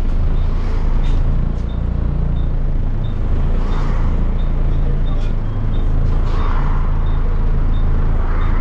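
Volvo B7TL double-decker bus's six-cylinder diesel engine heard from on board, pulling in the low gears, its note dropping and picking up again a couple of times as the gearbox changes. A faint regular tick about twice a second runs underneath.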